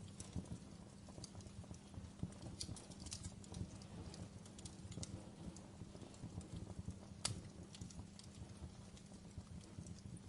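Wood logs burning in a fireplace: a low steady rumble of flame with irregular crackles and pops, the sharpest crack about seven seconds in.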